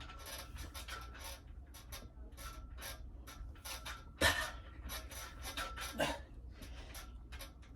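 A person breathing hard, with many short rustling and scraping noises and two louder exhales about four and six seconds in.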